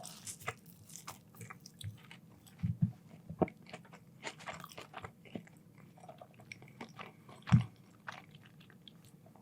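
A person chewing and biting crunchy food close to the microphone: irregular crunches and small mouth clicks, the loudest crunch about seven and a half seconds in.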